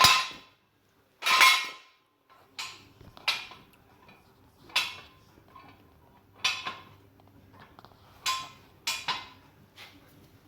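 Irregular metal clanks and knocks, about eight short ones spread over several seconds, the loudest a longer scraping clank about a second and a half in.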